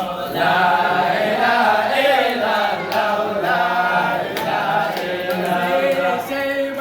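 A chorus of voices chanting together, growing louder about half a second in.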